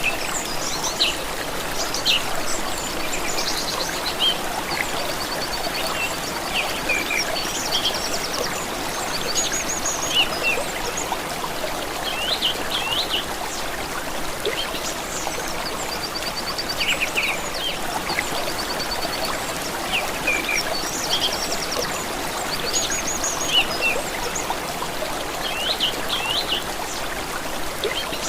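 A stream running steadily, with several songbirds singing over it: many short chirps and quick trills, repeating throughout.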